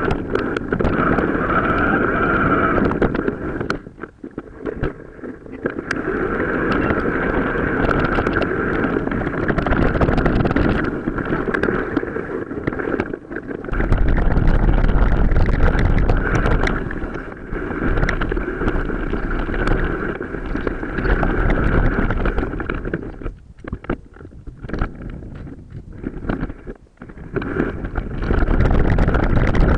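Wind buffeting the microphone over the rumble and clatter of a mountain bike riding an off-road track, played back four or five times faster than real time. It dips briefly a few times.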